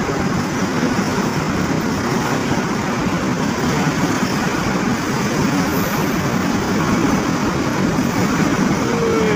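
Freight train of fuel tank wagons rolling past at close range: a steady rumble of wheels on the rails.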